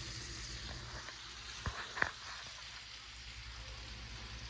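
Battered crappie fillets frying in hot oil, a steady soft sizzle, with two light clicks near the middle.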